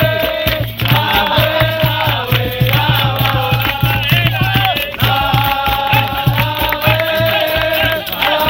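Capoeira roda music: voices singing a chant in phrases over a quick, steady hand-drum beat and rattling percussion.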